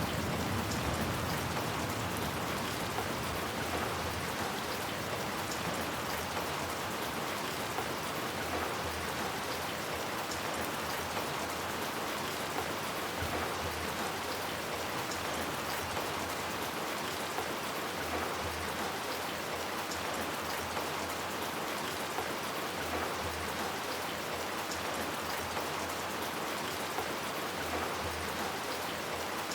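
Steady rain falling, an even hiss with no breaks; the tail of a low thunder rumble dies away in the first second.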